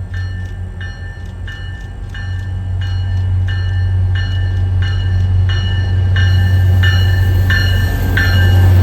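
Diesel commuter train locomotives arriving with a low steady engine drone and a bell ringing about twice a second. Both grow louder as the train draws near.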